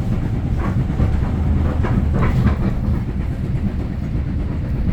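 Train running on the rails: a steady low rumble with a few clacks about one to three seconds in.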